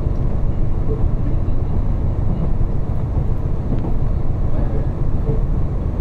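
Diesel railcar running along the track, heard from inside the passenger cabin: a steady low rumble of engine and wheels on the rails.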